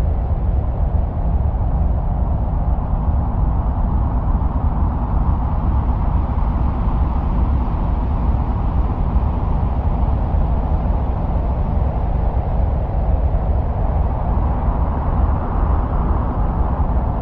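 Steady, deep rumbling wind-like noise with no distinct events, presented as the sound of wind on Mars.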